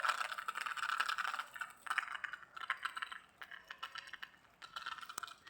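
Rain pattering, a dense crackle of many small drop clicks, heavier for the first couple of seconds, thinning in the middle and picking up again near the end.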